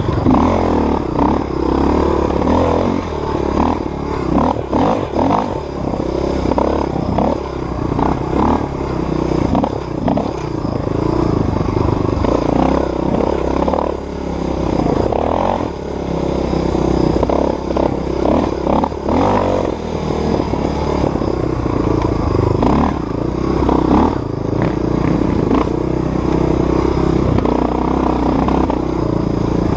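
Dirt bike engine running and revving up and down continually as it is ridden over rough trail. Rattles and knocks come from the bike as it bounces through the bumps.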